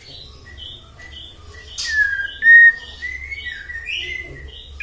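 White-rumped shama singing a run of clear whistled notes, some sliding down in pitch, with a louder held whistle about two and a half seconds in.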